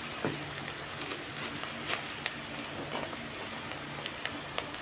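Oil and spiced keema masala sizzling gently in a pan, with scattered small crackles and pops.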